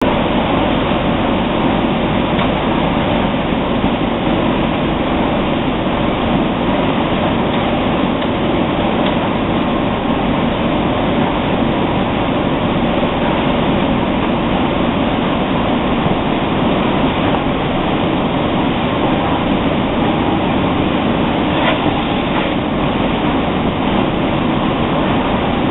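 Steady machinery noise of an automatic bag-in-box packing line running, with a few faint clicks near the end.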